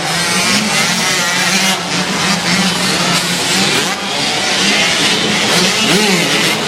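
Motocross bikes racing, their engines running hard and revving, one rising and falling in pitch near the end, over a steady loud hiss.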